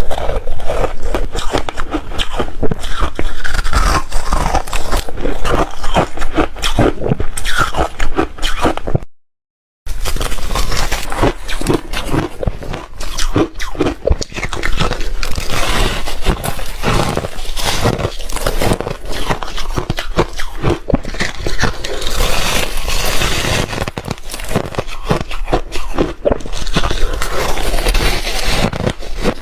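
A person biting and chewing soft re-shaved refrigerator ice, close to the microphone: a dense run of irregular crunches and scrapes, broken by a brief silent gap about nine seconds in.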